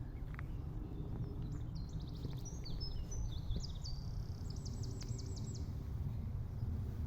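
A songbird sings one phrase of varied high notes, ending in a fast trill, over a steady low rumble.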